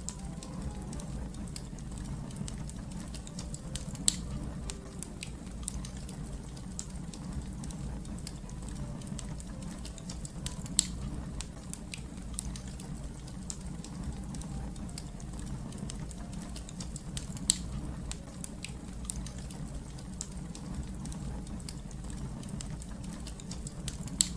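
Wood fire crackling: a steady low rumble of burning with a constant scatter of small sharp crackles, and a few louder pops spaced several seconds apart.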